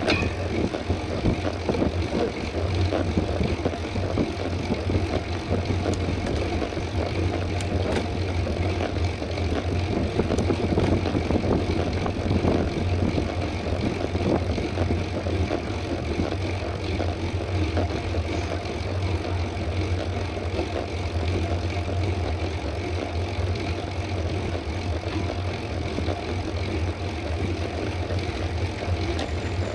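Steady rush of wind on the microphone with tyre noise from a mountain bike ridden at speed on a paved road, a constant low rumble with a few faint clicks.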